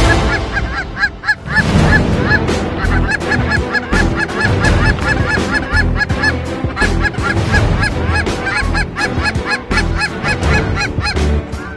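Geese honking in quick succession, several calls a second, with a brief lull about a second in.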